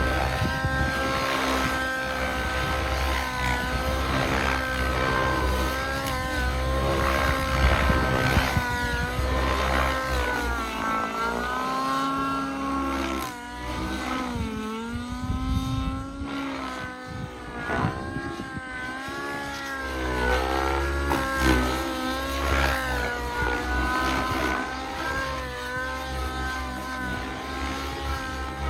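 Nitro glow engine and rotors of an XLPower Specter Nitro radio-control helicopter in flight, running at high speed. Its pitch keeps wavering up and down as it manoeuvres, with a deeper dip and recovery about halfway through.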